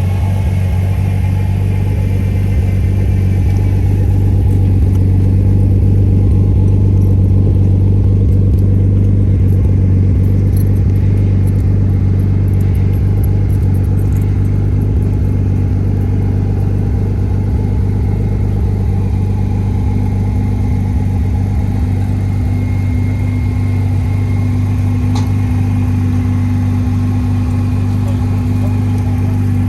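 A vehicle engine running steadily at idle, a constant low hum with a faint higher tone joining about two-thirds of the way through.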